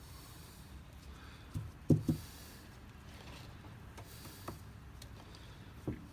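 A few soft knocks and taps from hands-on work, the loudest a quick double knock about two seconds in, over a low steady hum.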